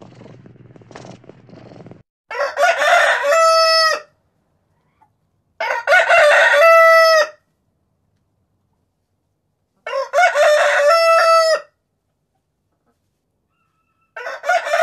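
A cat purring, then a rooster crowing three times, about every four seconds. A fourth crow begins near the end. Each crow is a broken series of notes ending in a long held note.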